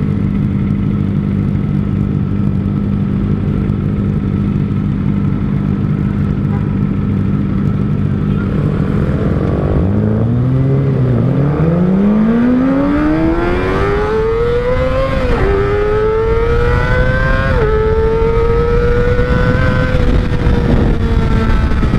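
Kawasaki ZX-25R inline-four running through an R9 Zeta aftermarket exhaust. It holds a steady low note for about ten seconds, then accelerates hard: the pitch climbs, drops sharply at two upshifts, and settles at a high steady cruise that eases off slightly near the end.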